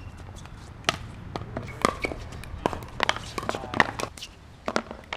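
Pickleball play: an irregular series of sharp pops from paddles striking the plastic ball and the ball bouncing on the court, mixed with footsteps.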